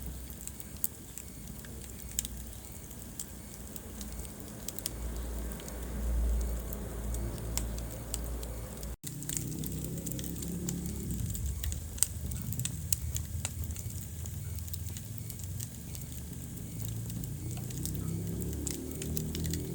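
Wood fire crackling in a fireplace: a steady low rumble of burning logs with scattered sharp pops and snaps, the loudest pop about twelve seconds in. The sound cuts out for an instant about nine seconds in.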